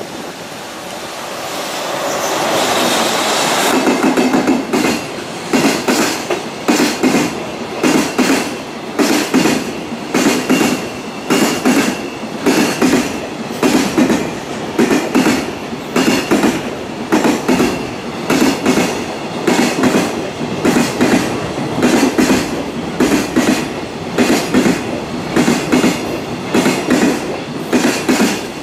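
Container freight train passing close by at speed. The sound builds over the first few seconds as the train arrives, then settles into a steady, repeating clickety-clack of the wagons' wheels running over the rail joints.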